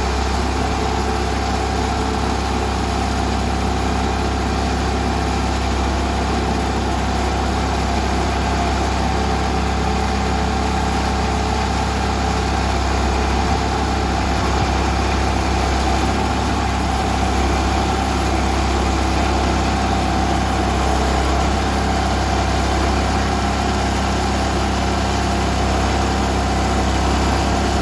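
Norwood portable band sawmill's engine running steadily.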